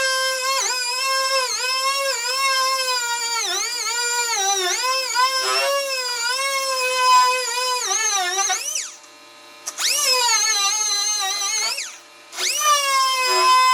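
High-speed air sander whining on a car's sheet-metal body panel, its pitch dipping each time it bears down on the metal and recovering. It is let off and spins down twice, about nine and twelve seconds in, spinning back up each time.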